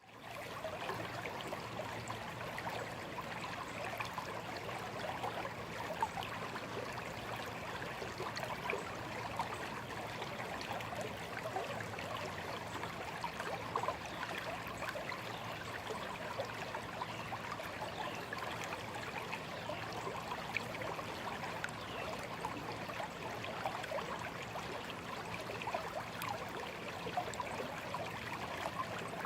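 Small shallow stream running over stones: a steady babble and trickle of water with many small splashes and gurgles.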